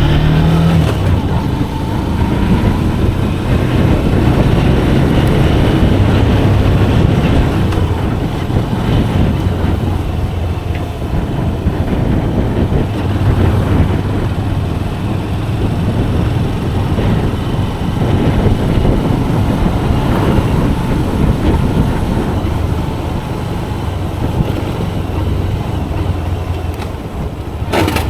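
Motorcycle engine running steadily on the move, mixed with wind and road noise, its pitch rising now and then as it picks up speed.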